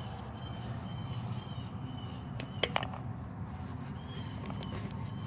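A few light clicks and taps, a cluster of them about halfway through, over a steady low background hum.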